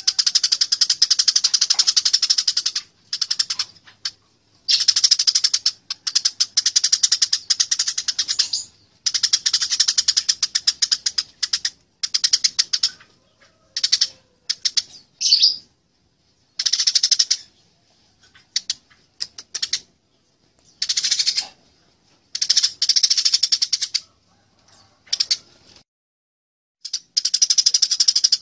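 Eurasian tree sparrows chattering in bursts of rapid, high notes a few seconds long, with short pauses between: the excited calls of sparrows fighting.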